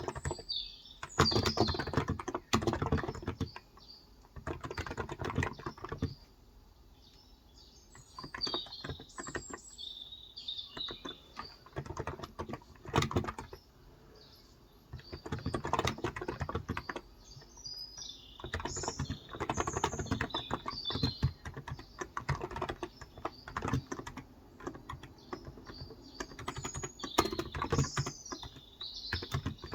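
Typing on a Cox Endeavor tenkeyless keyboard with 35 g electro-capacitive (non-contact) switches, in runs of rapid keystrokes broken by two short pauses. Birds chirp now and then in the background.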